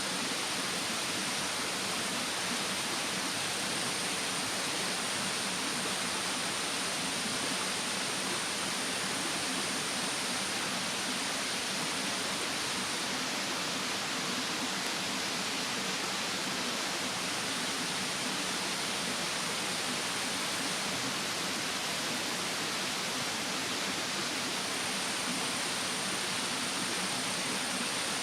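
Mountain stream rushing steadily. A faint, very high insect trill comes and goes over it.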